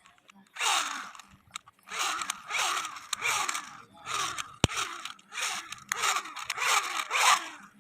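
Plastic toy vehicle pushed back and forth, wheels and gears grinding and whirring in a run of about ten short strokes, with one sharp plastic click about halfway through.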